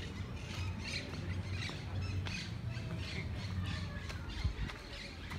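Birds squawking in short repeated calls, over a walker's steady footsteps on a cobbled path.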